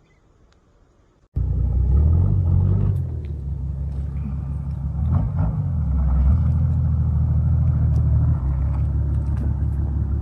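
Motor vehicle running: a loud, steady low rumble that starts abruptly about a second in after near silence.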